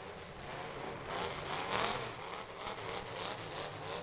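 Full-size demolition derby car's engine revving hard, its pitch rising and falling repeatedly and growing louder over the first two seconds.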